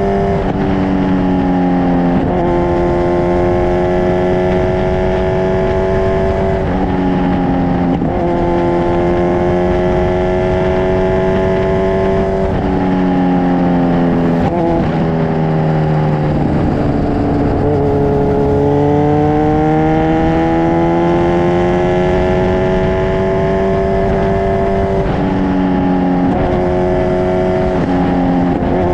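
Kawasaki Ninja 1000SX inline-four running loud through an Akrapovic full-system exhaust under way. The engine note steps in pitch every few seconds, and in the middle it sags and then climbs steadily.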